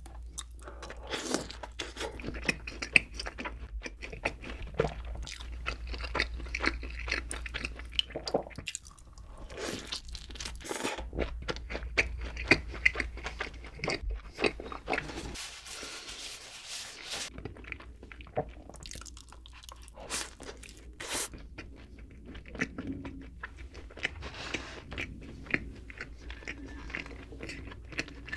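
Close-miked chewing and biting into donuts, with frequent irregular crunches.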